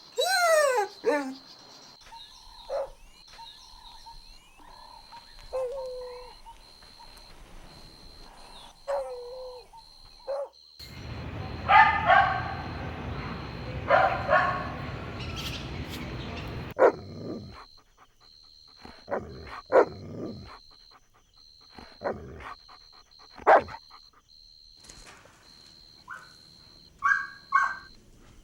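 Puppies whimpering and yipping in short falling whines, with a louder stretch of barking in the middle and scattered short yelps after it.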